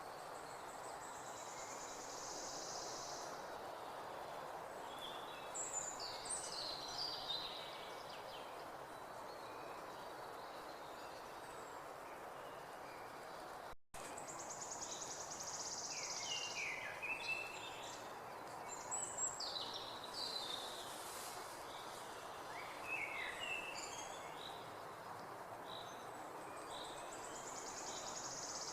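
Songbirds singing: a high, buzzy trill about two seconds long comes three times, with shorter chirping phrases in between, over a steady background hush. The sound cuts out for an instant about halfway through.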